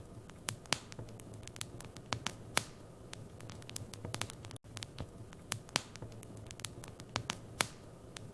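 Wood fire in a fireplace crackling: irregular sharp pops and snaps over a steady low hiss and hum. The sound drops out for an instant about halfway through.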